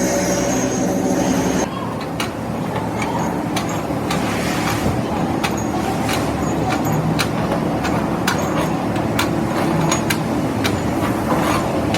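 Workshop machinery: a steady motor hum that cuts off abruptly about a second and a half in, followed by a rumbling background with many sharp, irregular clicks and knocks of metal work.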